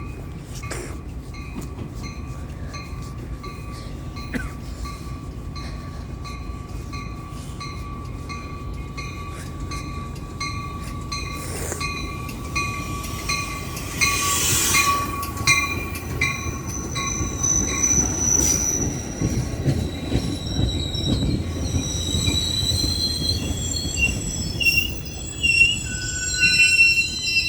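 Metra commuter train arriving. Its rumble grows louder about halfway through, and high steel-wheel squeal sets in during the second half.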